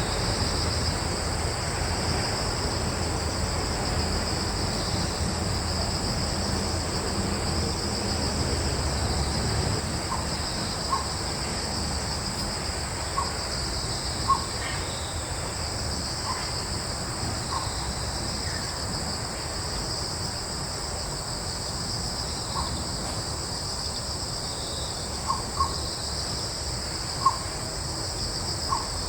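Woodland ambience: crickets and other insects trilling steadily in two high bands, over a low rumble of breeze that eases after about ten seconds. From then on a bird gives short single call notes, about a dozen, some in quick pairs.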